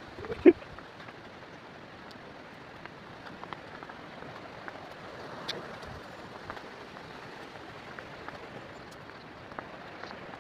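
Steady rushing noise of a waterfall's falling water, with one sharp knock about half a second in and scattered faint ticks.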